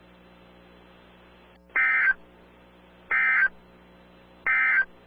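Emergency Alert System end-of-message data signal: three short bursts of digital warbling tone, about a second apart, marking the end of the alert.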